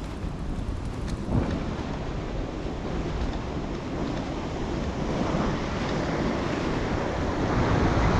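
Wind buffeting the microphone: a steady rushing noise, heaviest in the low end, that slowly grows louder.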